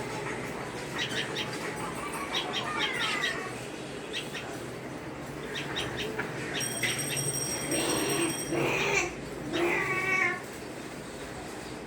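Tailorbird chirping: bursts of rapid short chip notes and a few quick falling chirps, then some louder drawn-out pitched calls about two-thirds of the way in.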